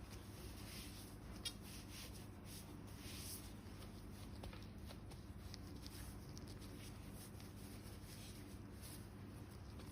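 Faint dry rustling and scratching as dead skin on the feet is worked by hand, with one sharp click about one and a half seconds in, over a low steady hum.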